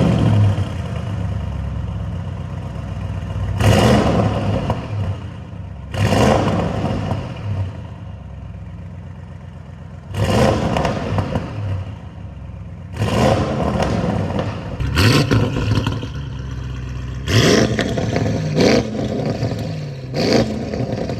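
Audi RS6 engine being revved in short blips, about nine times, each rev rising and falling back, with the engine idling in between. It breathes through newly fitted catless downpipes and mid pipes.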